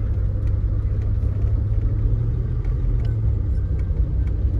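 Car engine running steadily as the car rolls slowly, heard from inside the cabin as a constant low rumble.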